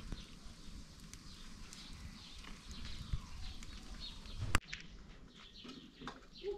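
Small birds chirping intermittently over a low outdoor background, with one sharp knock about four and a half seconds in.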